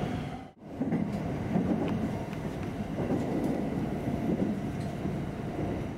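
Running noise heard inside a JR West 225-series electric train moving at speed: a steady rumble of wheels on the rails. It drops out briefly about half a second in, then carries on evenly.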